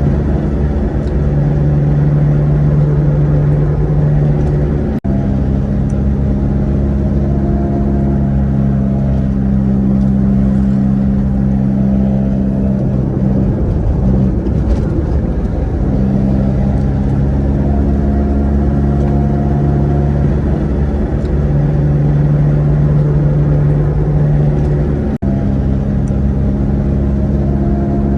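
Heavy truck's engine running at steady revs with a deep rumble. Its pitch shifts and wavers for a couple of seconds about halfway through, then settles again, and the sound breaks off for an instant twice.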